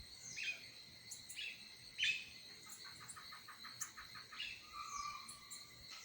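Small birds chirping: several sharp chirps, then a quick run of about six notes a second near the middle. A steady high insect whine runs underneath.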